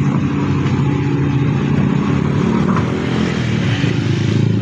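A motor vehicle engine running steadily with a low hum, easing slightly about three seconds in and rising again near the end.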